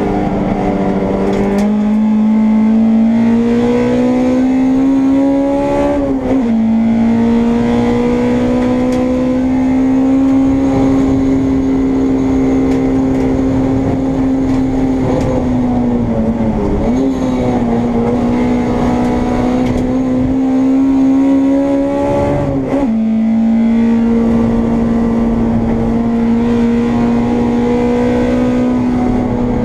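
Honda Integra race car's engine heard from inside the cockpit, working hard and climbing slowly in pitch. It drops sharply at quick upshifts about six seconds in and again near 23 seconds, with a brief lift and dip around 16 to 17 seconds.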